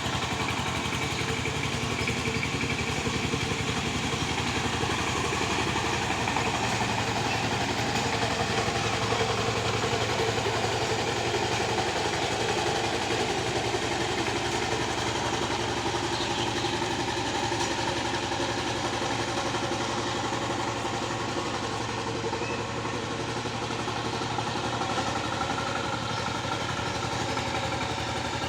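Tractor engine running steadily at a constant pitch while working the land.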